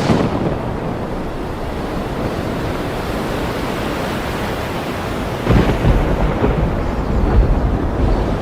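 Thunderstorm over ocean surf: a sudden sharp crack at the start, then a steady wash of rain, wind and waves. About five and a half seconds in, a deep rolling thunder rumble sets in.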